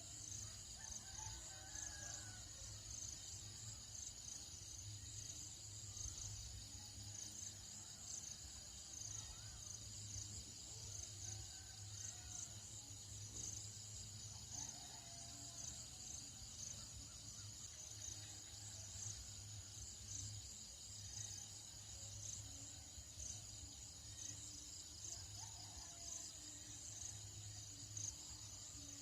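Dawn countryside ambience: a steady, fast-pulsing high insect chorus, with scattered birdcalls and distant rooster crows over a low steady hum.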